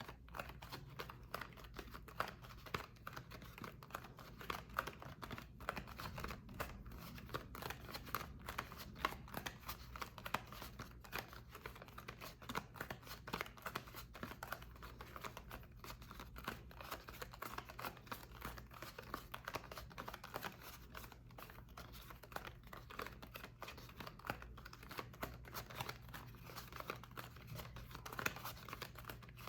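Dry soap being cut and crumbled: a dense, continuous run of small crisp crackles and clicks, over a faint steady low hum.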